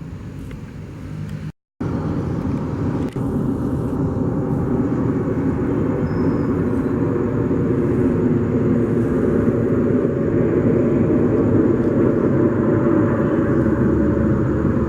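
Airliner engines running, a steady rumble that grows gradually louder. It cuts out completely for a moment about a second and a half in.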